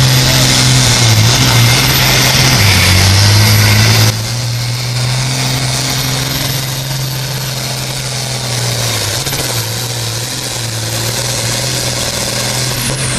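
Diesel farm tractor engine running hard under load, its pitch sagging as it lugs down. About four seconds in the loudness drops suddenly, and the engine keeps running more quietly.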